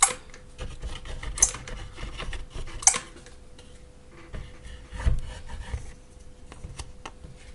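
Hands handling battery cells and plastic pack parts on a workbench: rubbing and scraping with sharp clicks, three loud ones in the first three seconds and a low thump about five seconds in, over a faint steady hum.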